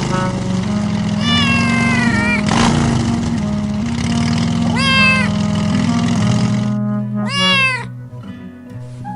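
A cat meowing three times over background music with held low notes: a long meow that falls gently, a shorter one midway, and a rising-then-falling meow near the end.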